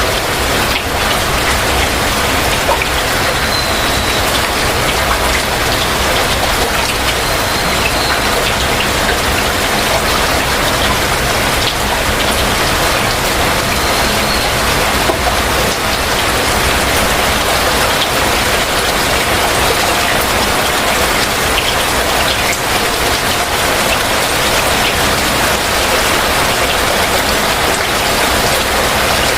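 Heavy rain falling steadily on surfaces, an even dense patter throughout. A few faint, short high chirps sound over it in the first half.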